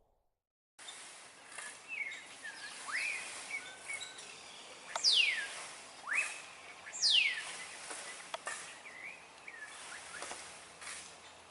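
Several birds calling over outdoor background noise: short chirps and upswept notes, with two loud whistles about two seconds apart that sweep steeply downward.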